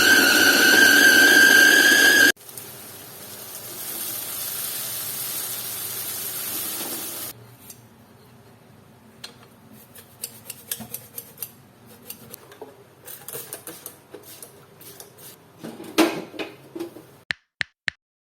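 A loud high tone with overtones, rising slightly in pitch, cuts off suddenly about two seconds in. A steady hiss follows for about five seconds, then scattered light clicks and clinks of dishes and utensils being handled, which stop about a second before the end.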